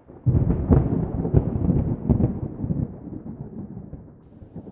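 A thunderclap: a sudden crack and rumble with irregular crackles, loudest near the start and dying away over about three seconds.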